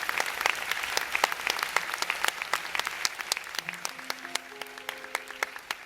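Concert audience applause thinning out and fading, the claps growing sparser. About four seconds in, a few held notes from an instrument sound briefly over the clapping.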